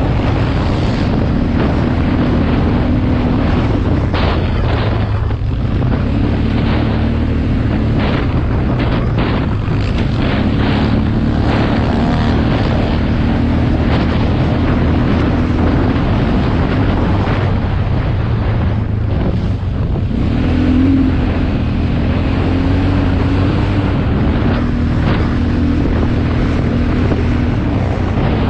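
Off-road motorcycle engine running continuously under riding load, its pitch stepping up and down as the revs change, with wind buffeting the microphone.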